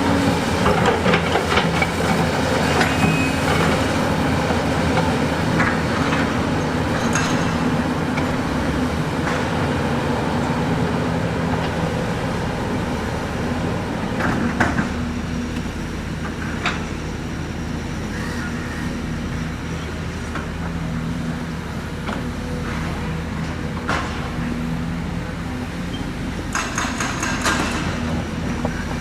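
Heavy diesel engines of construction machinery running steadily, with a few sharp knocks around the middle and a burst of clatter near the end.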